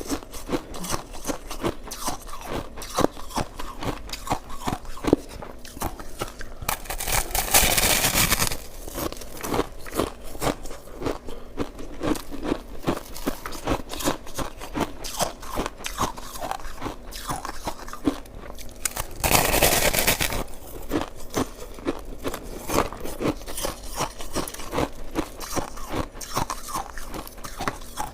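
Shaved ice being chewed close to the microphone: a continuous fast crunching crackle. Two louder, longer stretches of noise stand out, one about seven seconds in and one about nineteen seconds in.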